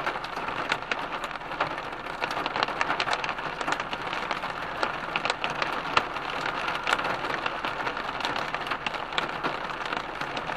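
Heavy rain beating on a car's body and windscreen: a dense, steady patter with many sharp individual hits.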